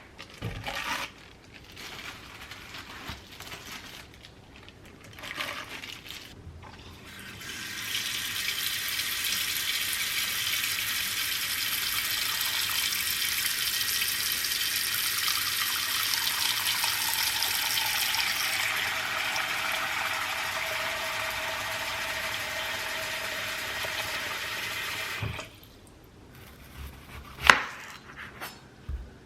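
Kitchen tap running water into a vessel for about eighteen seconds, then shut off. A few light knocks come before it, and one sharp clink comes near the end, the loudest moment.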